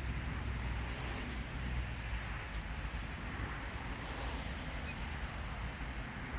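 Insects chirping in a field: faint high pulses repeating about two or three times a second over a steady high-pitched trill, with a low rumble underneath.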